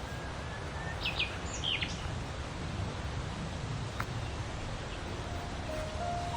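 Outdoor ambience with a steady low rumble, and a quick series of high, sharply falling bird chirps about a second in. A single sharp tick comes around four seconds.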